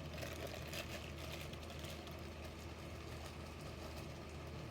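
A steady low hum, with a few faint light clicks in the first second.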